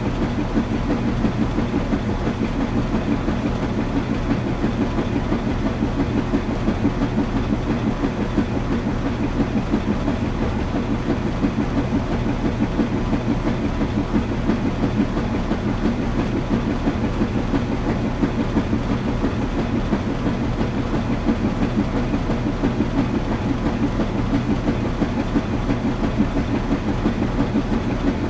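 Washing machine running steadily: a continuous low rumble and hum with a fast, even rhythmic pulsing.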